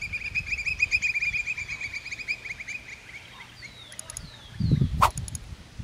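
A bird singing a long, rapid trill of evenly repeated notes that fades out after about three seconds. About five seconds in there is a low thump and a sharp click.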